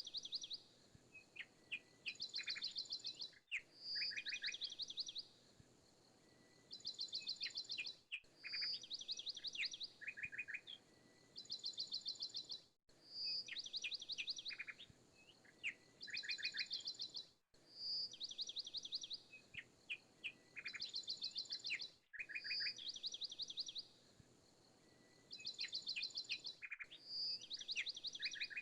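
Looped birdsong background track: the same short phrase of high chirps and rapid trills repeats about every four and a half seconds, with a brief dropout at each loop seam.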